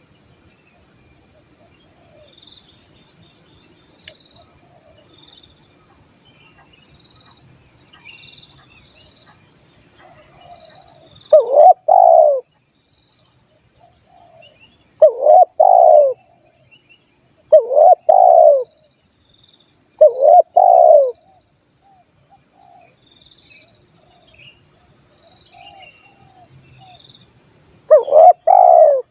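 Spotted dove cooing: five phrases of two or three arched, rising-and-falling coos, each about a second long, the first about a third of the way in and the last after a long pause near the end. A steady high insect buzz runs beneath, with faint chirps from small birds.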